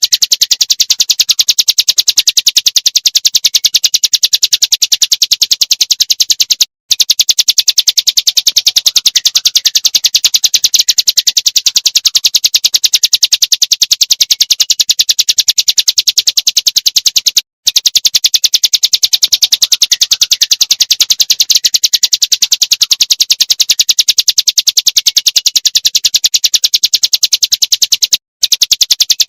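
Prinia's noisy chattering call: a fast, unbroken string of high ticking notes, broken by three short gaps about eleven seconds apart.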